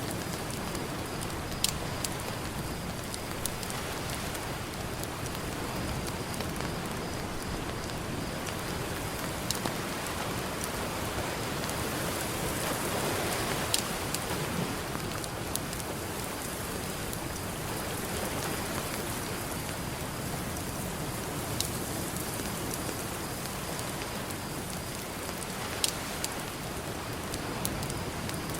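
Campfire crackling, with a handful of sharp pops, over a steady wash of ocean surf that swells up around the middle.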